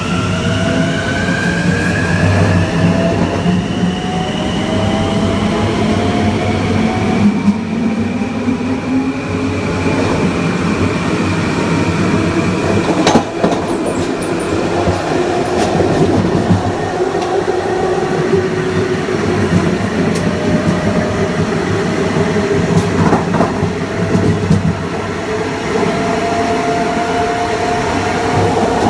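Kawasaki M9 electric multiple unit's Mitsubishi IGBT-VVVF inverter and AC traction motors whining, several tones rising together as the train accelerates over the first several seconds, then settling into a steadier motor hum over the rumble of the wheels. A few sharp clicks of wheels crossing rail joints come through along the way.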